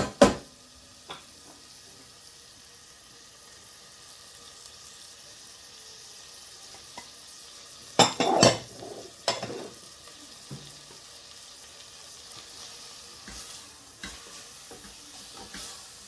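Chopped onions, tomato puree and spices sizzling as they fry in a pan, with a steady light hiss. A few sharp knocks come about eight and nine seconds in, and smaller clicks near the end.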